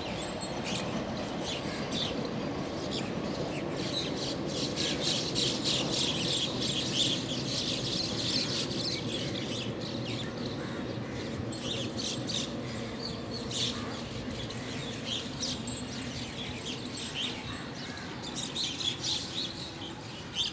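Many small birds chirping at once, short calls overlapping without a break over a steady low background noise.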